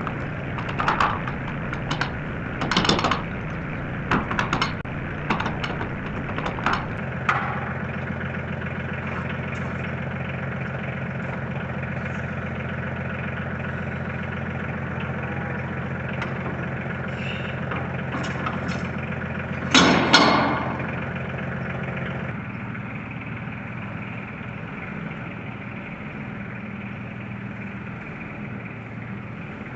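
Tractor engine running steadily, with a series of metallic clanks and knocks in the first several seconds and one loud clank about twenty seconds in; the engine note drops a little soon after.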